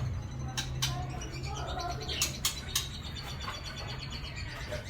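White-rumped shama calling and singing: varied whistled notes broken by about five sharp clicking chips, over a low steady hum.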